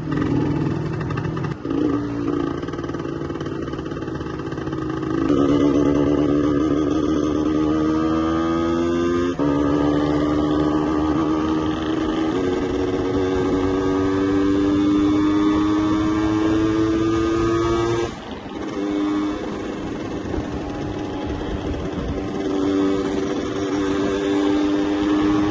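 Yamaha 125ZR's two-stroke single-cylinder engine accelerating through the gears. Its pitch rises in long pulls and drops back at each gear change, about nine, twelve and eighteen seconds in.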